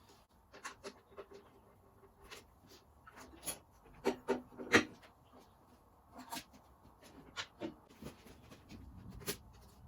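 Irregular clicks and knocks of hand tools and parts being handled while working on the engine, the loudest a little under five seconds in.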